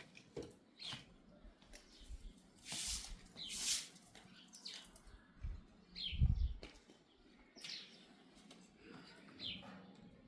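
Small birds chirping now and then, each chirp a short downward slide in pitch, with a couple of brief rustling swishes and a low thump a little past the middle.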